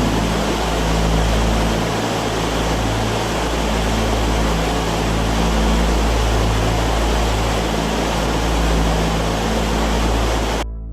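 Waterfall rushing in a steady, dense roar of falling water, cutting off suddenly near the end.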